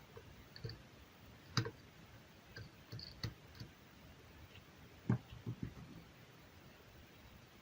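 Scattered clicks and light knocks from small parts or tools being handled: two sharper ones, about a second and a half in and about five seconds in, with fainter ticks between them.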